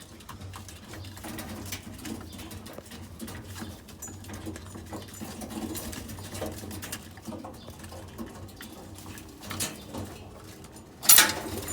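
Pigeons cooing in a loft, with scattered light clicks and scuffs; a sudden loud noise comes near the end.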